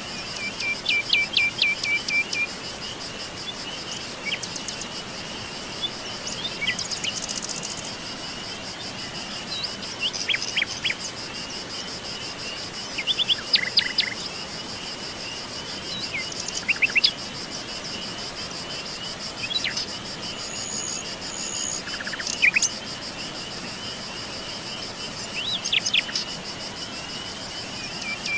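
Songbirds singing short phrases of quick, falling notes every few seconds over a steady, high-pitched insect trill.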